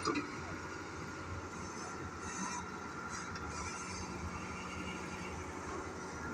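Heavy diesel engine of an excavator running steadily, with a faint steady high whine over it and a brief knock at the very start.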